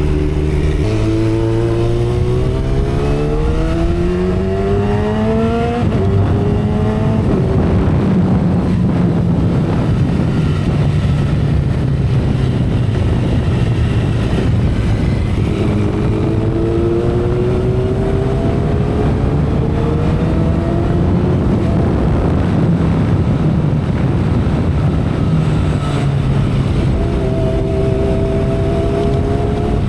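2012 Kawasaki ZX-10R's inline-four engine under way, its pitch climbing under acceleration for several seconds, then dropping sharply with an upshift about six seconds in. It then pulls up in revs again at cruising speed, with steady wind and road noise throughout.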